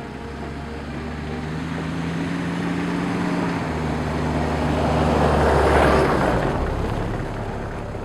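A motor vehicle passing: a low engine hum with noise that swells to its loudest about six seconds in and then fades away.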